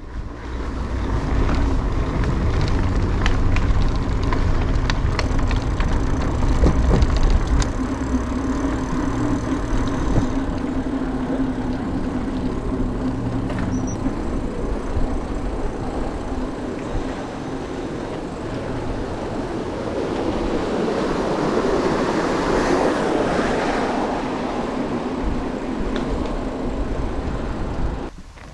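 Mountain bike riding noise: tyres rolling over a dirt track, with knocks and rattles from bumps, and wind rumbling on the microphone.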